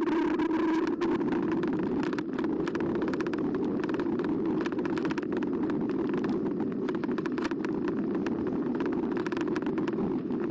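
Carbo X e-bike being ridden: a steady motor hum with frequent small clicks and rattles from the bike over the path surface.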